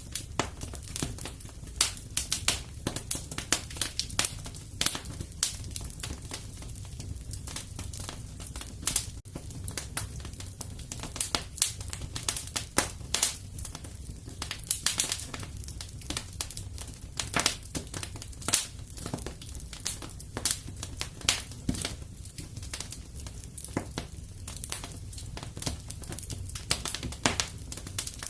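Wood fire burning in a fireplace, crackling with irregular sharp snaps and pops, several a second, some much louder than the rest, over a low steady rumble.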